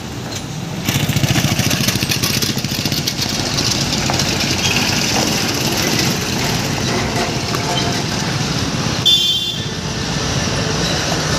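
Truck engine running with road noise while driving over a rough road, louder from about a second in. A short horn toot about nine seconds in.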